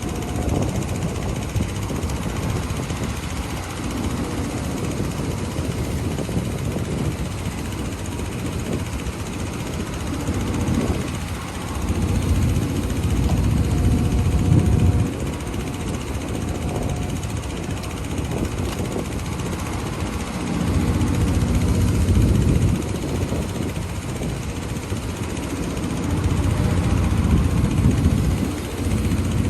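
Heavy diesel engine of earthmoving machinery running steadily, swelling louder for a couple of seconds three times in the second half as it works under load.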